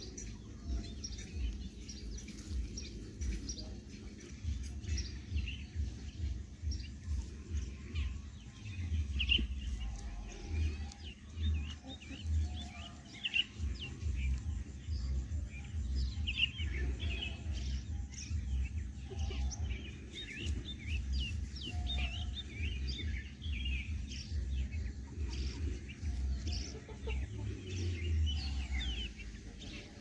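Small birds chirping in many short, repeated calls, over a low, fluttering rumble.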